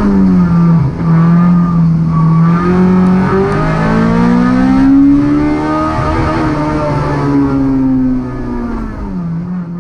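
A race-prepared Honda Civic's 1.6-litre four-cylinder engine heard from inside the cabin, revving up and down through a slalom: a brief dip in revs just before a second in, a long climb, then falling revs and a drop in loudness near the end as the driver eases off.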